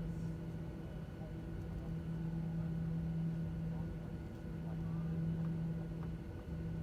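Steady low hum of an airliner's cabin, likely the air-conditioning and electrical systems, with faint passenger voices in the background. The hum drops out briefly about a second in, again near the middle, and again near the end.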